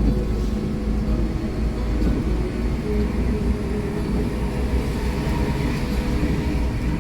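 Steady drone of a Hino R260 intercooled diesel bus under way, engine and road rumble heard from inside the passenger cabin.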